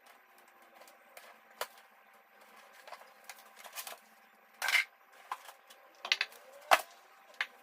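Irregular clinks and knocks of hard metal parts being handled, with a short scraping rasp a little under five seconds in and a few sharper knocks.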